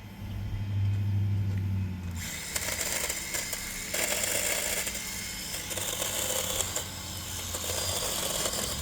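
Electric chainsaw running with a steady hum, then cutting into wood about two seconds in, with a rasping, high-pitched noise as the chain bites.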